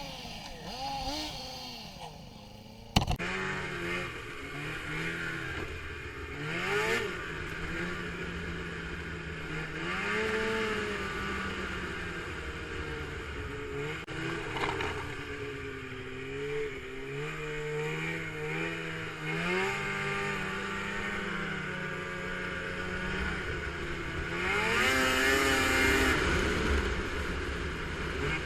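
A vehicle engine revving up and down under riding load, its pitch rising and falling repeatedly, louder for a while near the end. About three seconds in there is a sharp click where the sound changes abruptly.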